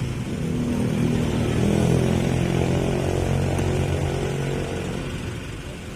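Dump truck's diesel engine revving as the loaded truck struggles in soft ground where it has sunk. The engine grows louder about half a second in, holds for a few seconds, then eases off near the end.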